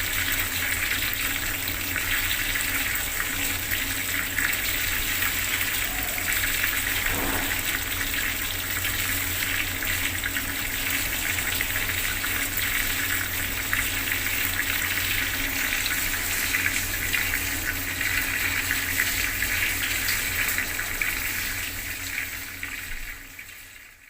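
Bathroom water tap running steadily, the stream splashing. It fades out near the end.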